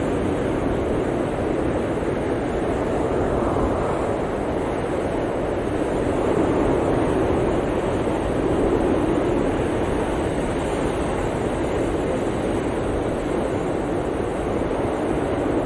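Blizzard wind blowing steadily, a dense rushing noise that swells a little now and then.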